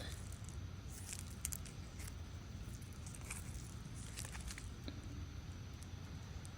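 Faint crackling and rustling over a low, steady rumble.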